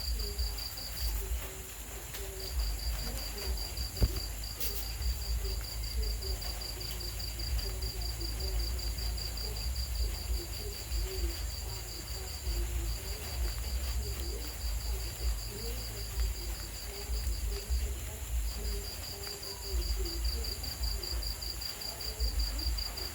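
Night insects, likely crickets, trilling: a rapid pulsed trill that keeps going with a few short pauses, over a steady high-pitched drone and a low rumble, with a single sharp click about four seconds in.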